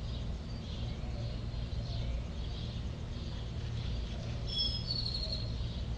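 Birds chirping over a low steady rumble, with a few clearer high chirps about four and a half seconds in.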